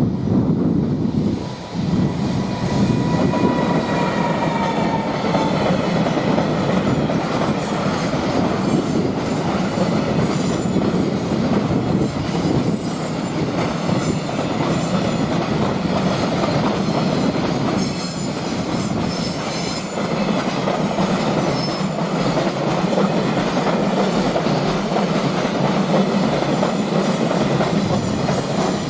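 Freight train running past, its wagon wheels clacking steadily over the rail joints, with a faint falling whine a few seconds in.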